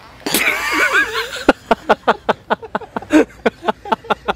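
A young man laughing hard in quick repeated pulses, after about a second of loud sound with a wavering pitch at the start.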